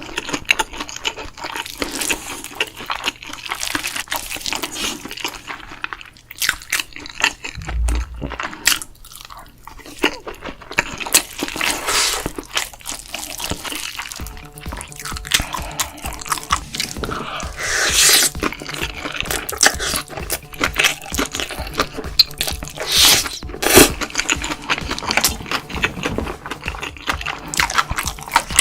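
Close-miked eating of bibimbap: crunchy, wet chewing and squishing with frequent sharp clicks, over quiet background music.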